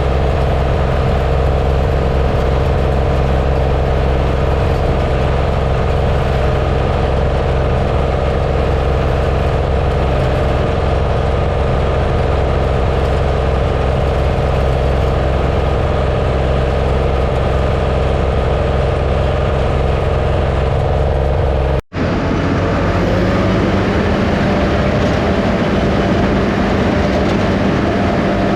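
Diesel engine of a heavy earthmoving machine running steadily under work. Near the end the sound drops out for an instant and resumes with a different engine note.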